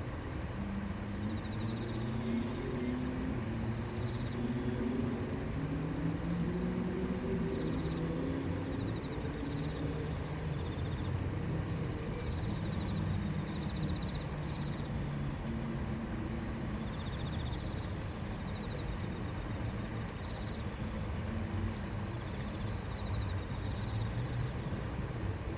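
Shallow river or stream babbling steadily over stones, a constant rushing with low gurgling. Short high-pitched trills recur every second or two over the water.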